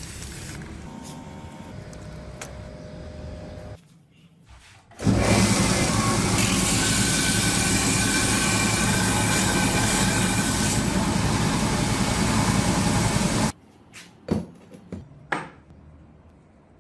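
A loud, steady machine noise in a metalworking shop that runs for about eight seconds and cuts off abruptly, then a few sharp knocks. A quieter mechanical sound comes first.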